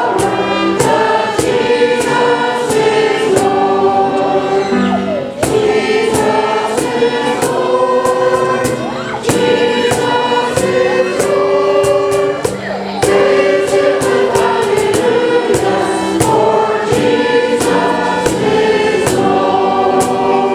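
A choir singing a hymn with accompaniment, with held notes over regular struck chords.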